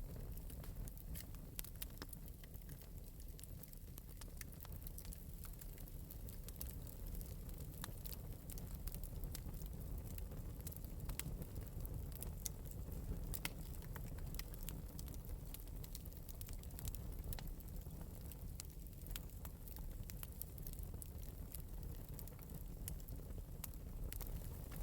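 Wood fire burning in an open metal fireplace with a steady low rumble and frequent light crackles and pops.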